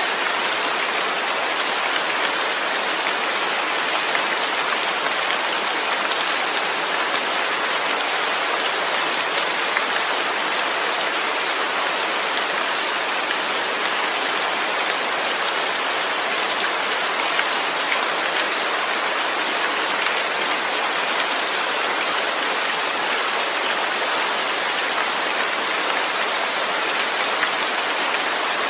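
Steady rain falling, a constant even patter with no breaks.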